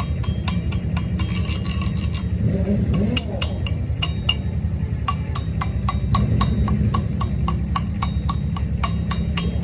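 Rapid hammer blows ringing on metal, about four a second, thinning out for a couple of seconds before picking up again, over a steady low machine hum.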